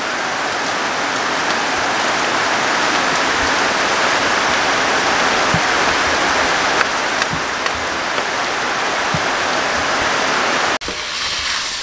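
Snails sizzling in a hot wok as soy sauce goes in and a wooden spatula stirs them, a loud steady hiss. Near the end the sizzle drops suddenly to a quieter level.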